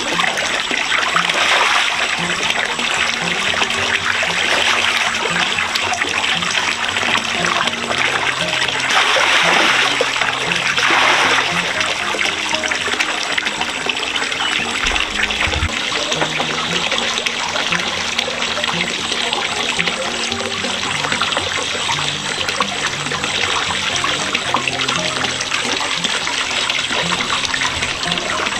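Running water trickling and splashing steadily, briefly louder about a third of the way in, over quiet background music.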